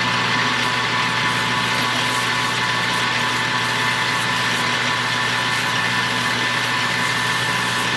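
Metal lathe running at a steady speed, a constant motor and spindle hum with a few fixed tones, while a diameter on a small part is being turned.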